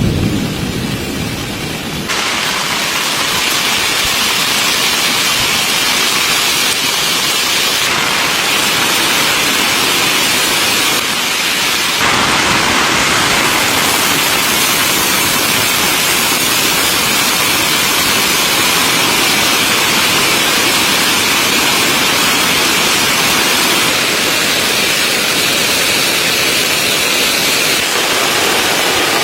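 Heavy rain falling steadily on a tent, a dense even hiss. The tail of a low thunder rumble fades out in the first two seconds.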